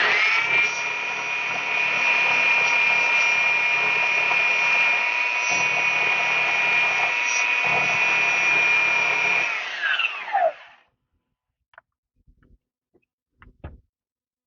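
An electric power tool's motor spins up to a steady high whine, runs for about ten seconds, then winds down with falling pitch.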